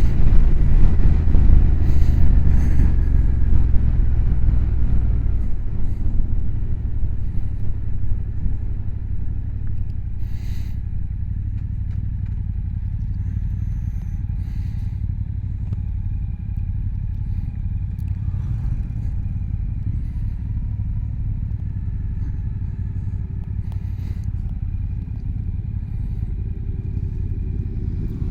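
Motorcycle engine running loudly as the bike slows for the first five seconds or so, then idling steadily at a standstill.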